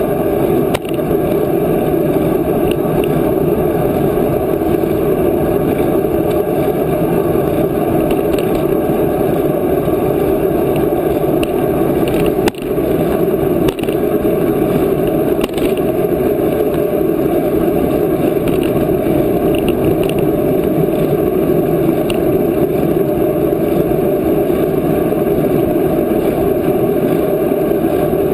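Steady rushing noise of wind and riding on the microphone of a moving bicycle, with a brief click and dip about halfway through.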